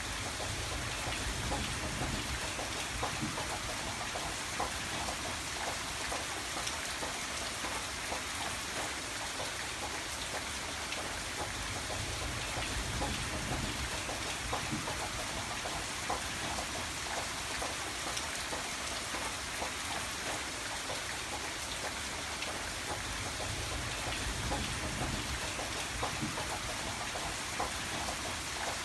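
Steady rain falling, with many small drop hits on a surface over a continuous hiss and a low rumble underneath.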